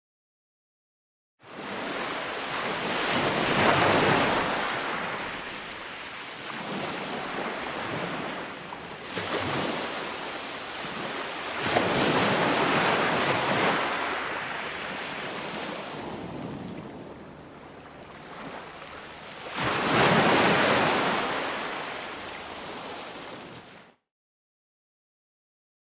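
Ocean surf breaking and washing ashore in three big swells about eight seconds apart, each rising and then falling away. The sound cuts in abruptly after about a second and a half of dead silence, and cuts out to silence again about two seconds before the end.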